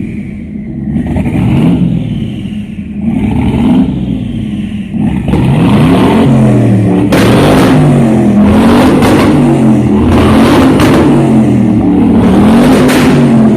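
Car engine revving up and down over and over, its pitch rising and falling about every second and a half. It is softer for the first few seconds and loud and steady from about five seconds in.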